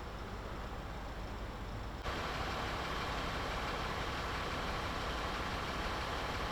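Vehicle engine idling steadily amid street noise; about two seconds in the sound changes abruptly to a louder, brighter steady hum.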